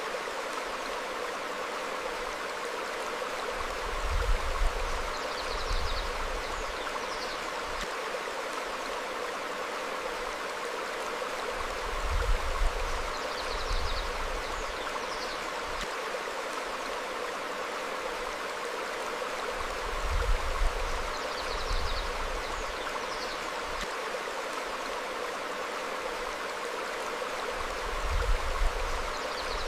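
Stream flowing steadily over rocks, with a low swell and a few short bird chirps coming back at even spacing about every eight seconds.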